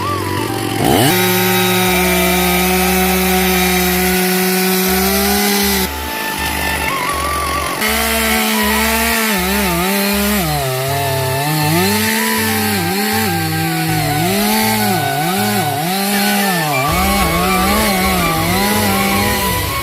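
Chainsaw cutting into a tree, its engine held at high revs, then its pitch repeatedly dipping and recovering as the chain bogs down in the wood. A steady low pulsing runs underneath.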